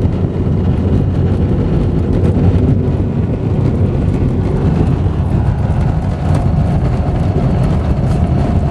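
Steady road and engine noise of a Ford Escape driving downhill, heard from inside the cabin as a low, even rumble.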